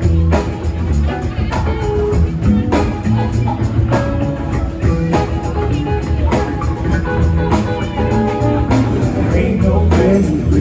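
Live band playing an instrumental passage of a song, with a drum kit keeping a steady beat under guitar.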